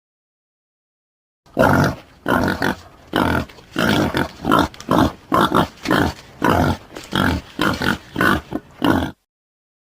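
Boar grunting in a steady series of short grunts, about two a second. The grunts begin after a second and a half of silence and stop shortly before the end.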